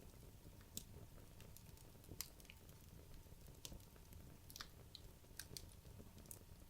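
Wood logs burning in a fireplace, crackling quietly: a dozen or so sharp, irregular pops and snaps over the fire's low, steady rumble.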